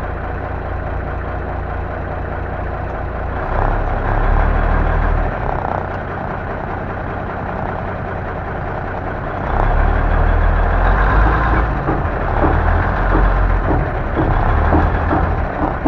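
Diesel engine of an M923A1 military 6x6 five-ton truck running with a steady low rumble, rising under throttle twice as the truck drives, once about a third of the way in and again for the second half. A few short knocks come near the end.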